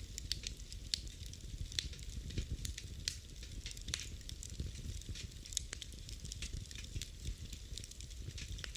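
Wood fire crackling in a fireplace: frequent irregular sharp pops and snaps over a low, steady rumble of the burning.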